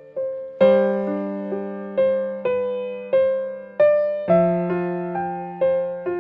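Slow, gentle piano music: single notes and soft chords struck about once or twice a second, each left to ring and fade.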